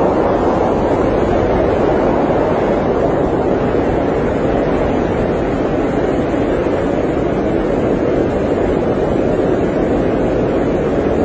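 Steady, even rush of blizzard wind heard from inside an RV, a deep constant noise with no gusts or breaks.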